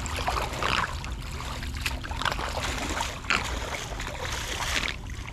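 Floodwater flowing and trickling, with irregular louder splashes.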